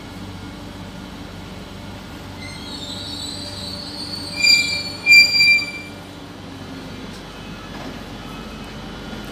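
An SNCF Régiolis regional train creeping into the platform with a steady low running hum, its wheels and brakes squealing high and shrill as it slows. The squeal builds about two seconds in and is loudest in two sharp bursts around the middle.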